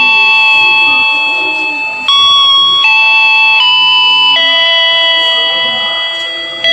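Train announcement chime: a slow melody of bell-like electronic notes stepping from pitch to pitch, with two long held notes that fade before the next one strikes.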